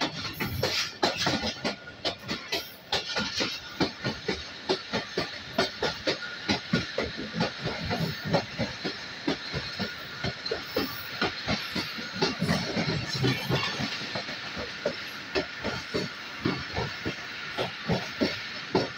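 Passenger train running at speed, heard from the open door of a coach: the wheels clatter over the track in a quick, uneven run of sharp clicks, over a steady rush of air.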